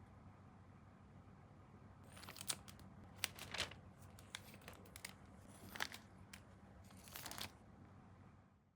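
Plastic model-kit packaging and parts being handled: a few short crinkling, tearing rustles mixed with sharp clicks, over a faint steady hum.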